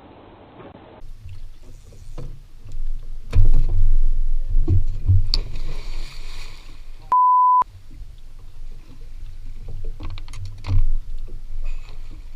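Heavy low thumps and knocking with rough noise, loudest a few seconds in, interrupted about seven seconds in by a half-second pure-tone censor bleep that blanks out all other sound.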